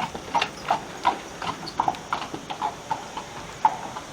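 Horse's hooves clip-clopping on a stone street at a walk, with sharp, uneven strikes at about four a second.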